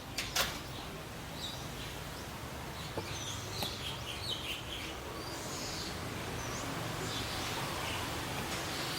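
Small birds chirping in short scattered calls over a steady low background hum, with a sharp click just under half a second in.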